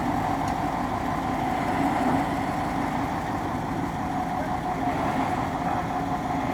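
Truck crane's diesel engine running steadily at an even pace.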